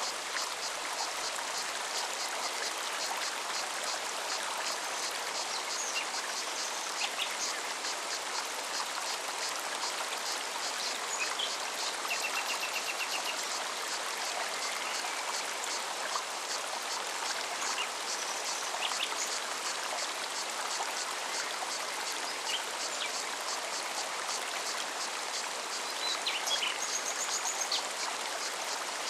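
Mountain forest stream running steadily over stones, with a cicada's fast pulsing song high above the water. Scattered short bird chirps and a brief trill come and go.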